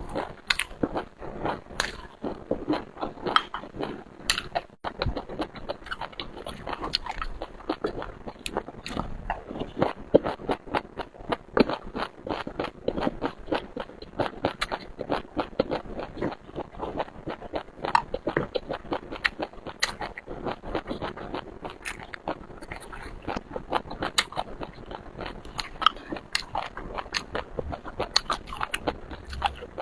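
Close-miked eating of seafood: continuous chewing and biting, with many quick, sharp clicks throughout.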